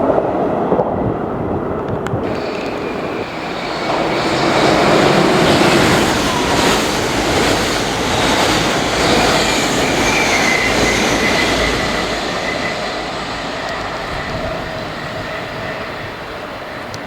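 A train running past on the tracks, a steady loud rumble of wheels and rails with a thin high wheel squeal in the middle, slowly fading toward the end.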